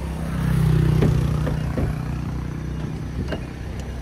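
Car engine idling with a steady low hum that swells briefly in the first couple of seconds, with a few light clicks as the car door is opened.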